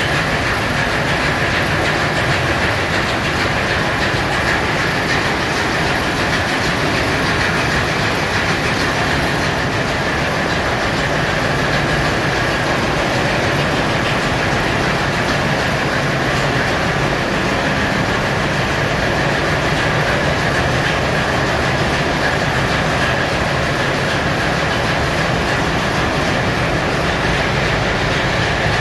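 Engine-room machinery of a VLCC crude oil tanker running: a loud, steady din with a constant high whine and a low hum, unchanging throughout.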